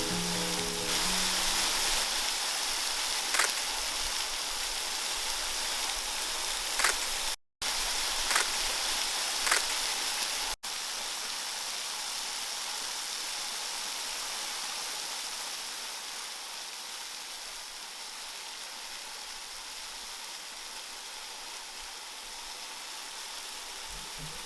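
Steady rush of falling water from a waterfall, an even hiss. It drops out briefly about seven seconds in and grows somewhat quieter in the second half.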